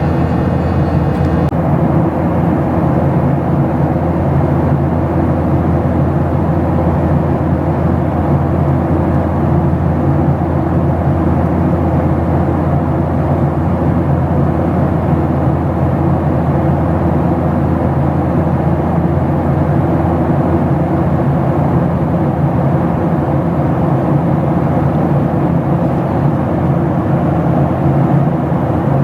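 Steady cabin noise of a Boeing 737-700 airliner in flight: the constant rush of the engines and airflow, with a low, even hum and no change in pitch or level.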